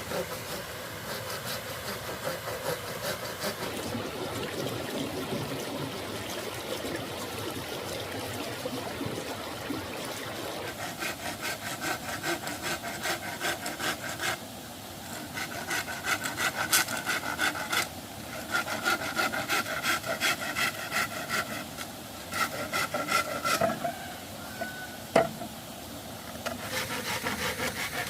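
Hand saw cutting through bamboo in runs of quick back-and-forth strokes, with short pauses between runs and one sharp crack near the end.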